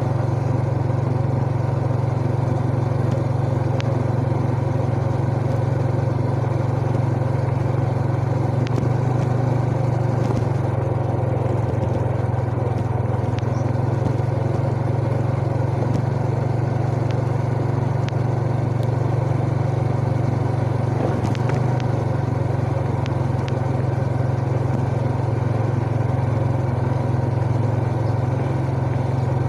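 Yamaha Jupiter Z Burhan's single-cylinder four-stroke engine running at a steady, nearly constant pitch while riding, with only slight changes in throttle.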